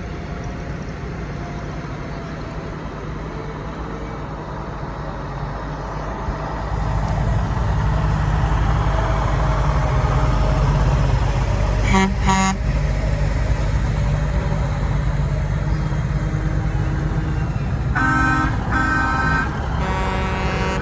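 Old trucks' engines running in a slow procession, getting louder about a third of the way in as they come close. A truck horn gives two short toots about halfway through, then several more blasts near the end.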